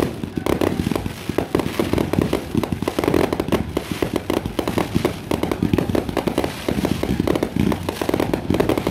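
Fireworks going off in a rapid, continuous barrage of bangs and crackles, many reports a second without a break.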